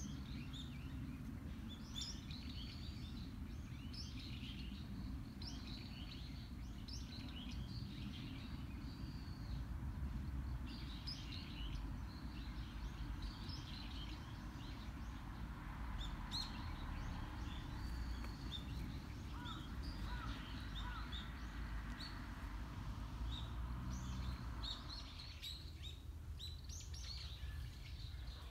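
Small birds chirping and calling again and again, over a steady low background rumble.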